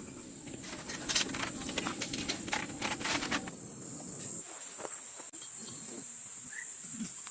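Outdoor ambience with a steady high-pitched insect drone, and a run of sharp clicks and taps over a low rustling noise in the first half.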